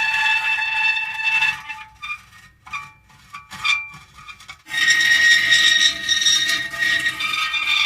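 Metal creaking and squealing: long drawn-out squeals, then a broken stretch of short squeaks in the middle, then a loud squeal at a new pitch starting about five seconds in.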